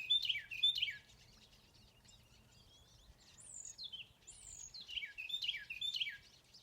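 Carolina wren singing: two bursts of its loud, clear song, quickly repeated falling phrases, one right at the start and another near the end. In between, another bird gives two high falling whistles.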